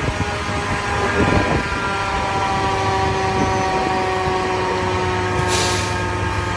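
Heavy fire-rescue truck's diesel engine running as the rig pulls up, a steady low rumble with a whine of engine tones. A short hiss comes near the end.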